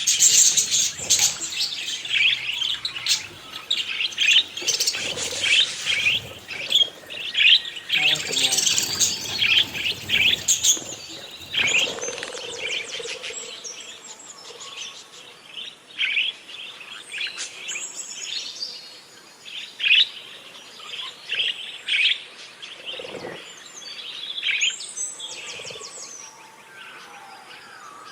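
Budgerigars chirping and chattering in quick, warbling runs of chirps. The chatter is dense and loud at first, then thins to scattered single chirps from about halfway through.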